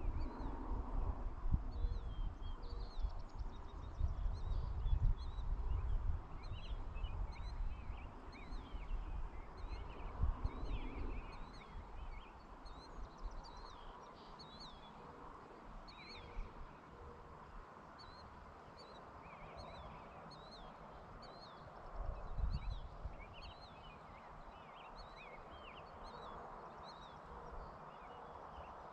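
Many small birds chirping, short quick calls that overlap all the way through. Under them is a low, gusty rumble of wind on the microphone, strongest in the first dozen seconds and again briefly a little after twenty seconds.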